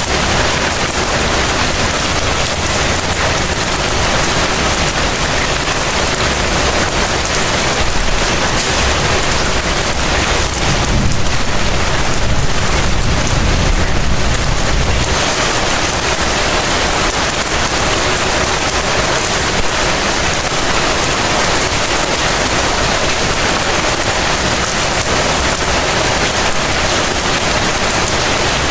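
Heavy rain falling as a steady, dense hiss. A low rumble swells for a few seconds near the middle.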